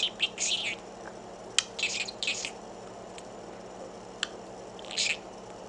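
Budgerigar chirping and chattering in short, high-pitched bursts, in three clusters, with a couple of sharp clicks in between.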